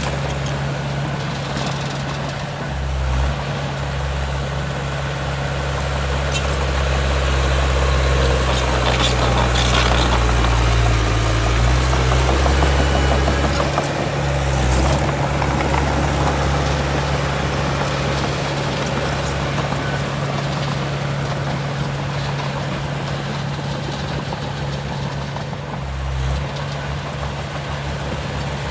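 Heavy diesel engine of earthmoving machinery running steadily with a low hum, growing a little louder for several seconds in the middle and then easing back.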